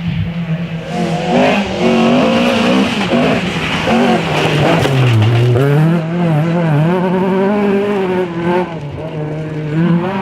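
Historic rally car engine revving hard, the note climbing in steps through the gears, dropping sharply about halfway, then rising and falling again under throttle, with some tyre squeal.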